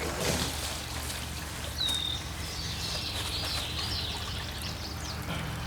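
Water from a garden hose pouring steadily into a 55-gallon plastic barrel.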